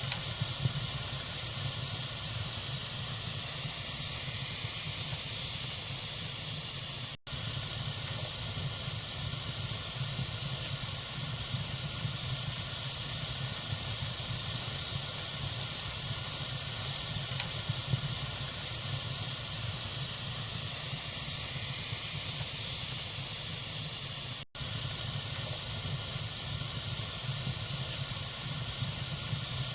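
Wood fire burning in a fireplace: a steady hiss with a few faint crackles, cutting out for an instant twice.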